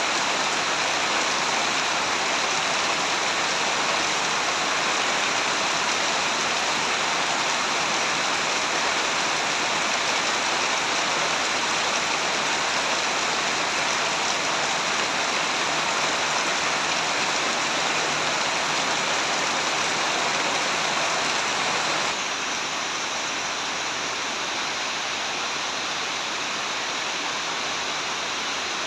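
Heavy rain falling steadily, a dense, even hiss. About two-thirds of the way through, it drops suddenly to a slightly quieter, duller hiss.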